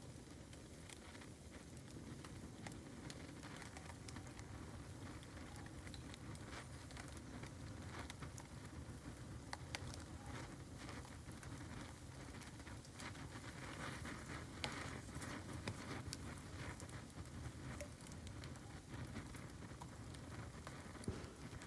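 Bamboo burning in an open bonfire: steady crackling with frequent sharp ticks and pops.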